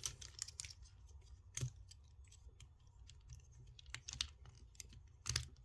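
Irregular light clicks and taps of hard plastic parts as a Transformers action figure is handled and transformed, with a few sharper clicks, one about a second and a half in and one near the end.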